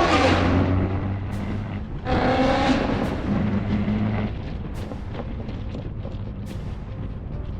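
Performance car engines revving hard twice, once at the start and again about two seconds in, over a steady low drone of idling cars. Sharp exhaust pops come through now and then.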